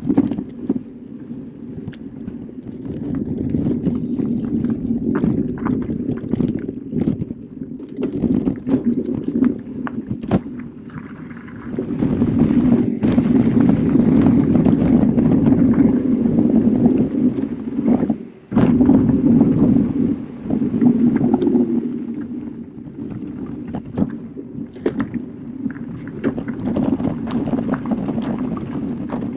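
Specialized Turbo Kenevo SL e-mountain bike being ridden over a dirt trail: tyre rolling noise that swells and fades with speed, with frequent small rattles and knocks from bumps. The noise cuts out briefly about two-thirds of the way through.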